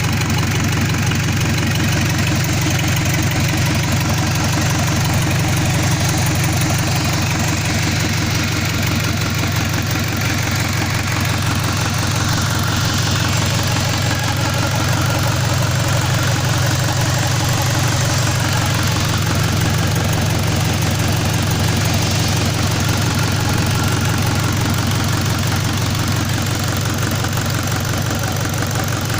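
Mitsubishi Colt Diesel PS100 truck's diesel engine idling steadily with an even rhythm. It is an engine due for an overhaul, being run as a test.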